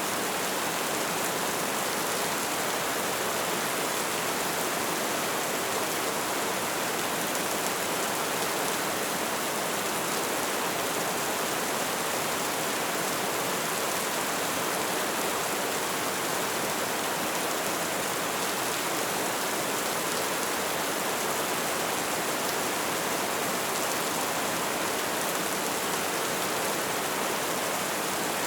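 Light rain falling in a steady, even hiss, with no single drops standing out.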